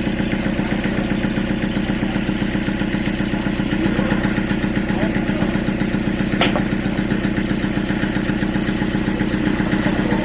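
A sawmill's engine running steadily with a fast, even beat, and a single sharp click about six seconds in.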